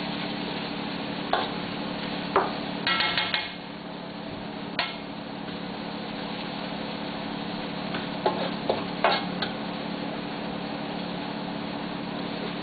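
Onions, chilies and garlic sizzling in a little oil in a wok while being stir-fried, with a spatula knocking and scraping against the wok now and then. A steady low hum runs underneath.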